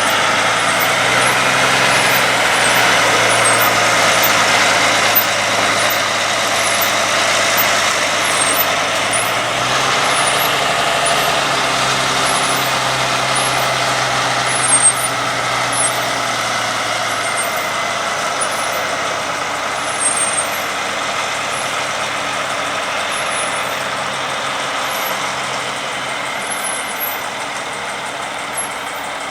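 Heavy haulage prime movers' diesel engines running under load as the oversize convoy moves, with tyre and road noise. The engine pitch shifts about ten seconds in, and there is a brief louder sound near fifteen seconds in.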